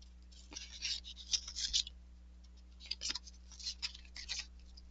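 Cardboard basketball trading cards being flipped through by hand, one sliding off another in two flurries of short, scratchy rubs.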